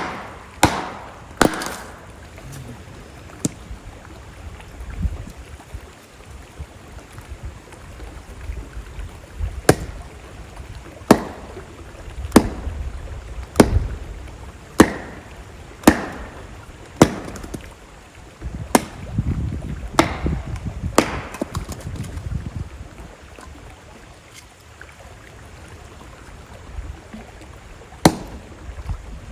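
Campfire wood crackling, with loud sharp pops at irregular intervals. They come thickly in the first couple of seconds and again through the middle, then thin out toward the end. A steady low rush of flowing water runs underneath.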